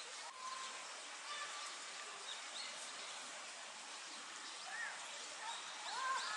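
Faint outdoor ambience of distant voices, with a few short rising-and-falling calls about five and six seconds in.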